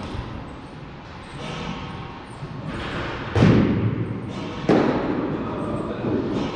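Two loud thuds about a second and a half apart, each with a hall echo: baseballs striking during practice in a large indoor space.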